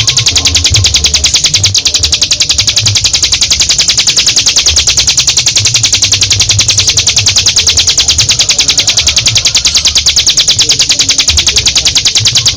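Ciblek gunung, a prinia, singing its long 'ngebren' song: a high-pitched, rapid, unbroken run of notes that goes on without a break.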